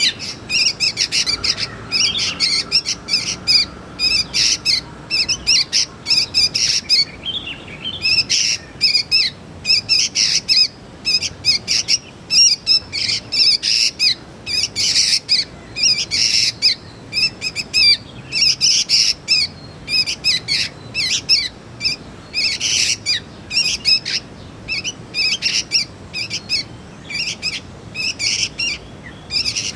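Young sooty-headed bulbul (kutilang) calling: rapid, continuous strings of short, high chirps with brief pauses between clusters.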